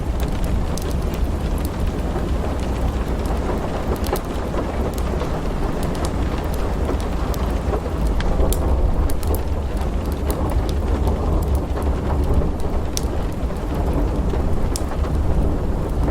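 Steady rain with a continuous low rumble of thunder, and scattered sharp crackles and pops from a wood fire.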